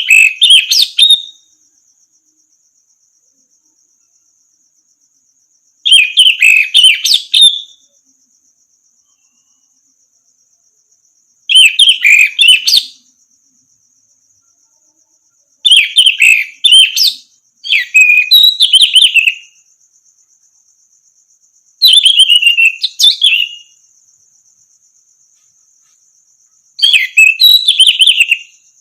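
Orange-headed thrush singing: seven short warbled phrases of one to two seconds each, separated by pauses of a few seconds.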